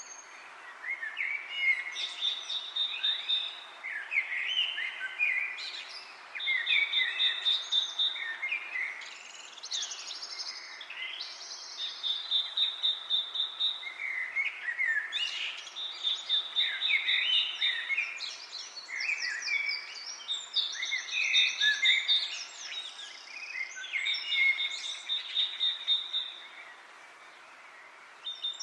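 Several birds chirping and singing, one repeating a rapid, high, steady-pitched trill every few seconds among varied shorter calls. A soft hiss of wind in leaves runs underneath.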